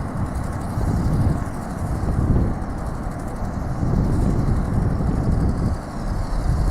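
Strong gusty wind buffeting the microphone: a loud, uneven low rumble that swells and dips every second or so.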